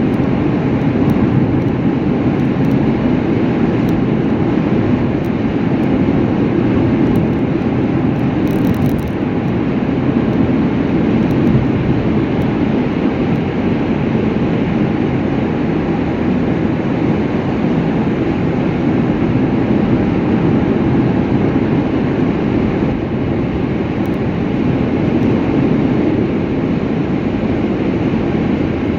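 Steady road noise of a vehicle travelling at speed: an even rush of tyre and engine noise with no changes.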